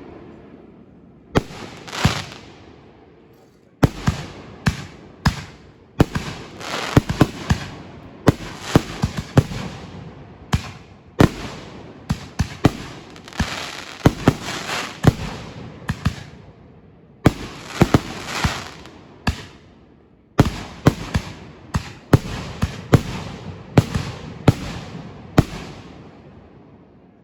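Aerial fireworks bursting in rapid runs of loud, sharp bangs, each trailing off in a fading tail, with brief lulls between runs.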